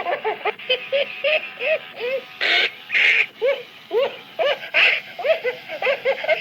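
Gemmy leg-kicking bunny animatronic playing its recorded laughter: a rapid string of short giggling syllables, each rising and falling in pitch, about three a second, with two breathy gasps about two and a half and three seconds in.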